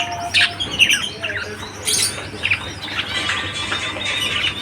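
Birds chirping: a string of short, downward-sweeping calls repeated every half second or so, then a busier twittering of several overlapping calls from about three seconds in.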